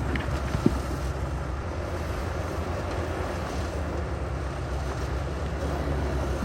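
Heavy diesel earthmoving machinery running steadily with a low, even engine hum, and a single short knock near the start.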